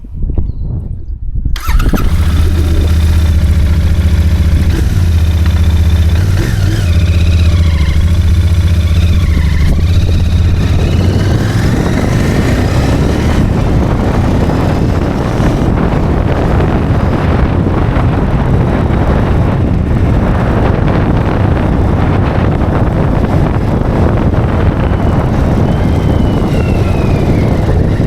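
Royal Enfield Interceptor's parallel-twin engine on its stock exhaust, starting about a second and a half in and settling into a steady idle with an even low beat. After about ten seconds the sound turns rougher and noisier.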